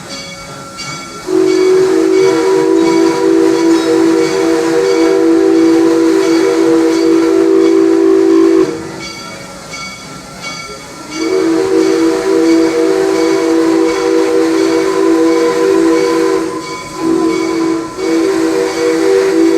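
Steam locomotive's chime whistle blowing several notes together as one chord: a long blast of about seven seconds, a pause, a second long blast, a short toot, then another blast starting near the end, with steam hiss and train running noise underneath.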